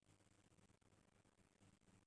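Near silence: a faint steady low hum under a light hiss.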